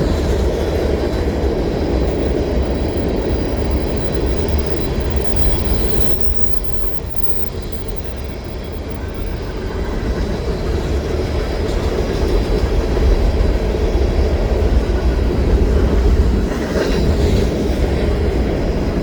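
Fast CN freight train rolling past, its cars running by steadily and loudly, with the sound easing a little about seven to nine seconds in.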